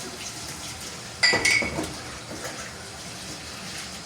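A single sharp clatter about a second in, over a low, steady background noise.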